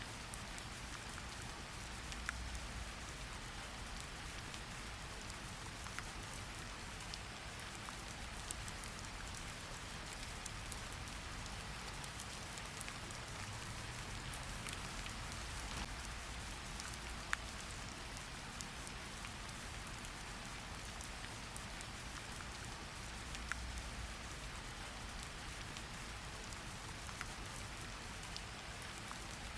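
Steady rain falling on a surface, with individual drops ticking here and there over an even hiss and a soft low rumble that swells a few times.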